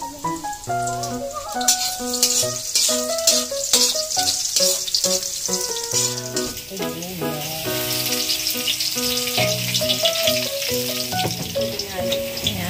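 Hot cooking oil sizzling and crackling in a pan, growing much louder about two seconds in, over background music.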